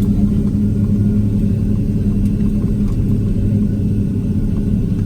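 Boeing 767-300 cabin noise on the ground after landing: the engines idling as the airliner taxis, a steady low rumble with a constant hum underneath.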